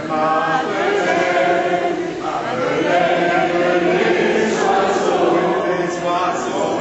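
A group of voices singing a slow song together, holding long notes.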